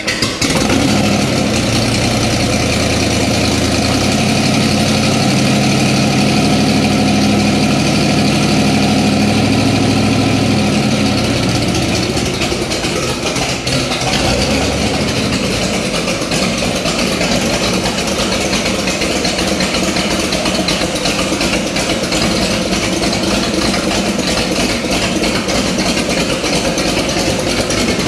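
Car engine idling steadily, then changing about eleven to thirteen seconds in to a fuller, noisier running sound that carries on.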